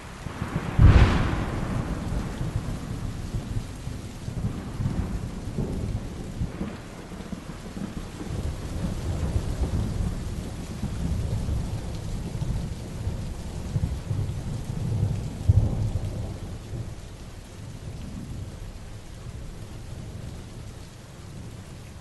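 Heavy rain falling steadily while thunder cracks sharply about a second in. The thunder keeps rumbling low for many seconds, peaks loudly again about two-thirds of the way through, and dies away near the end.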